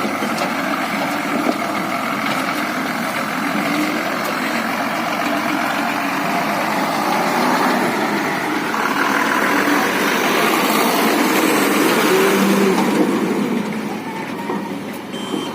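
Diesel engine of a JCB backhoe loader running. It grows louder and works harder through the middle, then eases off near the end.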